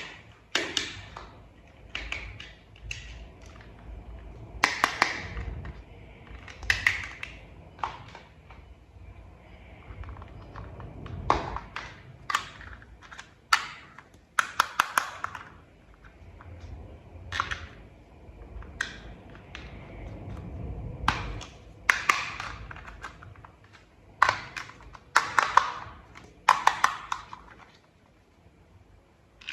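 Small toy parts being handled and fitted together: irregular clicks and taps, with a few short scraping, rustling sounds between them.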